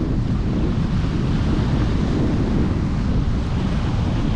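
Strong wind buffeting the microphone, a loud, steady low rumble with rapid gusty flutter, over the sound of the sea.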